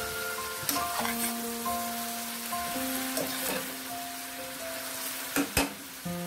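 Beef and bell pepper strips sizzling as they are stir-fried in a stainless steel pan, with the utensil clicking against the pan and two sharp knocks near the end, under background music.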